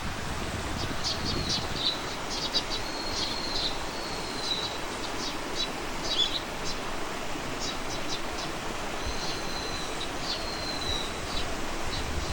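Small birds chirping and singing: quick repeated high chirps with a few short whistled notes, over a steady background hiss.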